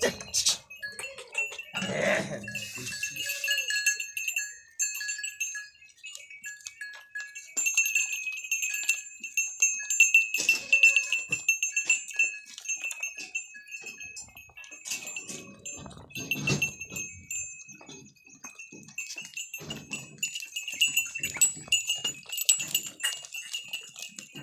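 Goats in a village yard: an occasional goat call, against a steady high ringing and many small clicks and rustles.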